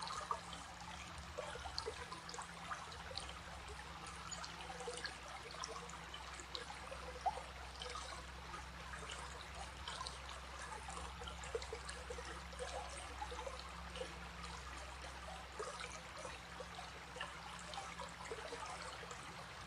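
Recorded stream of water trickling and babbling steadily, with many small irregular splashes, over a faint steady low hum.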